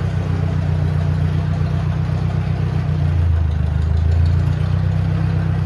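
Old farm tractor engine running steadily while driving. Its pitch drops about three seconds in and comes back up a second or so later.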